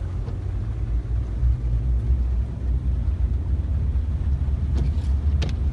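Low, steady rumble of a car driving slowly, with a couple of light clicks or knocks near the end.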